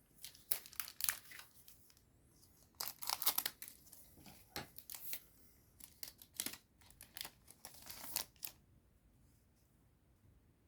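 A foil booster pack of Digimon Card Game cards being torn open and its wrapper crinkled: a run of sharp rips and crackling rustles that stops near the end.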